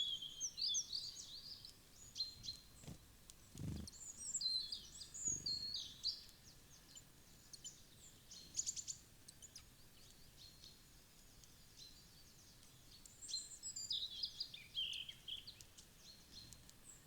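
Small wild birds chirping and twittering in short bursts, with scattered light clicks. Two dull low thumps come about four and five seconds in.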